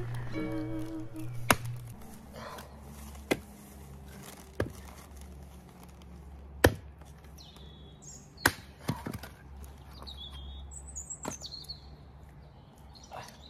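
Sharp knocks about every one and a half to two seconds, with a background song fading out at the start and high bird chirps in the second half.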